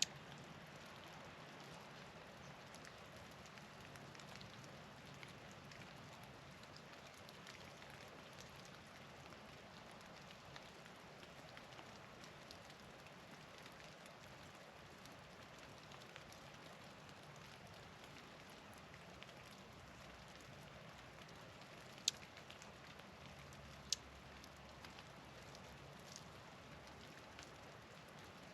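Faint steady hiss of falling precipitation from an April snowstorm, with many light scattered ticks, and two sharper clicks near the end.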